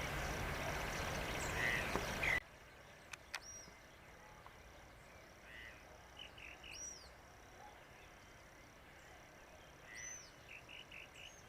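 Small birds calling outdoors, with short high arched notes about every three seconds and a few softer chirps, over a faint steady high-pitched drone. For the first two seconds or so a noisy rush covers everything, then it cuts off suddenly.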